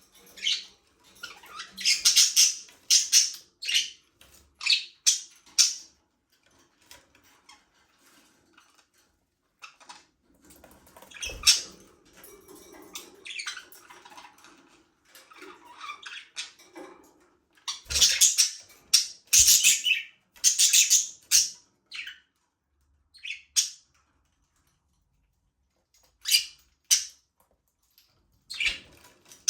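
Budgerigars chirping and chattering in bursts of short high-pitched calls, with quieter gaps between the bursts.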